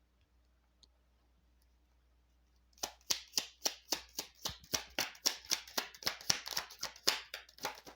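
Tarot cards being shuffled by hand: a rapid run of crisp card slaps, about five a second, starting about three seconds in, after a near-silent pause.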